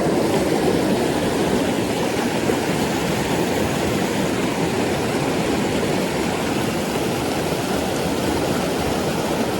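Creek water rushing steadily over rocks, an even, unbroken rush.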